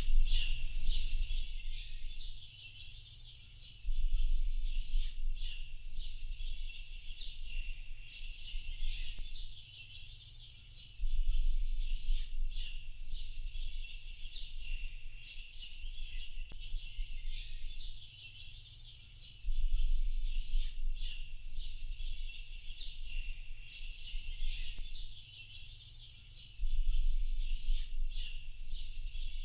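A dense chorus of many small birds chirping and twittering without pause, over a low rumble that swells up and fades about every seven to eight seconds.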